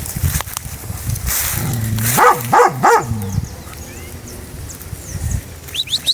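A hunting dog giving three quick vocal calls, about two to three seconds in.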